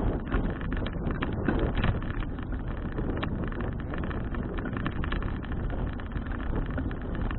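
Wind buffeting a bicycle-mounted action camera's microphone while riding, with frequent small clicks and knocks mixed in.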